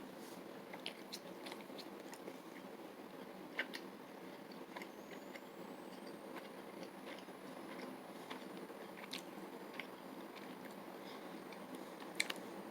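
Person biting and chewing a soft beef sausage snack stick: faint, scattered small mouth clicks over a steady low background hiss.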